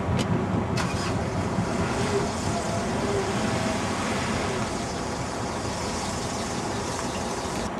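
Train crossing a steel truss railway bridge, heard from below as a steady rumble. Two short clicks come near the start.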